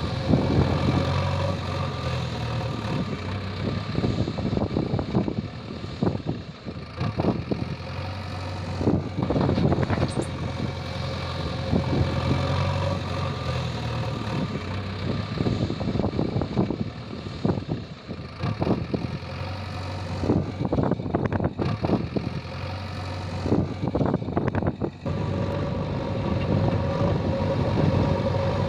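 JCB 3DX backhoe loader's diesel engine running steadily while the machine works, with frequent irregular knocks and clanks over the engine.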